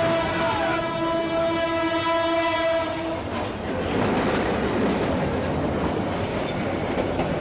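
Train horn held on a steady chord that cuts off about three seconds in, followed by the loud, noisy rush of a passing train.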